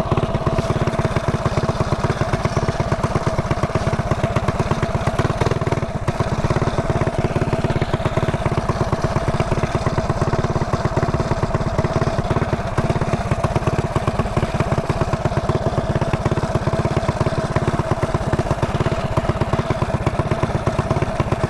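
Mini bike's small engine running steadily, a fast even firing beat at a constant speed with no revving.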